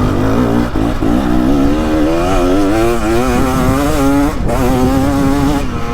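2023 KTM 300XC's two-stroke, throttle-body-injected engine pulling under load, its note climbing slowly and wavering. The throttle is briefly chopped about a second in and again past four seconds, then reopened.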